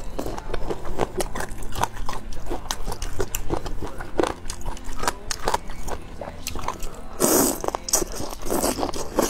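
Close-miked biting and chewing of boneless chicken feet, the deboned skin and tendon giving many short wet clicks and crackles, with two louder, longer bursts about seven and eight and a half seconds in.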